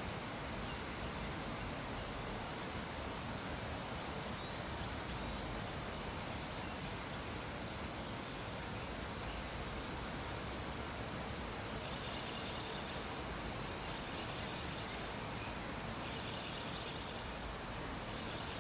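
Steady background hiss of ambient noise, with faint short high-pitched chirps in the first half and faint warbling sounds near the end.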